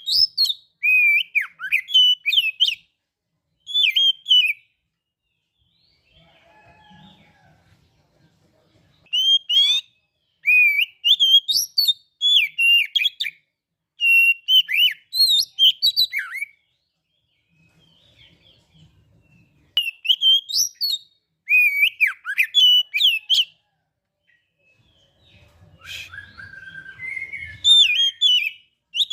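Oriental magpie-robin (kacer) singing: loud, varied whistled phrases with quick up-and-down pitch slides, in bouts of a few seconds broken by short pauses. Fainter, lower sounds fill some of the pauses.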